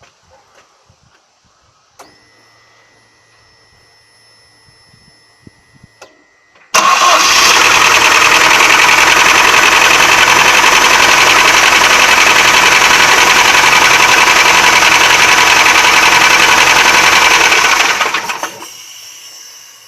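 ZMZ-409 four-cylinder petrol engine started, run for about eleven seconds and switched off. It carries a knock that the owner suspects comes from the rear main bearing shell. Before it starts, a faint steady high tone sounds for a few seconds.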